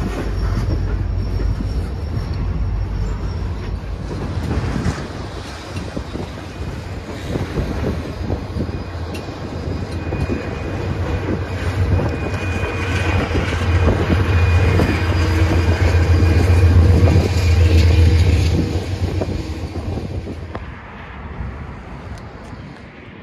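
Freight train rolling past with steady wheel rumble and clicking over the rail joints. A trailing Norfolk Southern diesel locomotive goes by, and its engine hum is loudest about two-thirds of the way through. The sound then fades as the train moves away.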